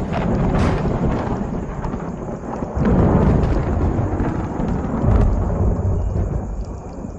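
Thunder rumbling low and continuously, swelling louder about three seconds in and again about five seconds in.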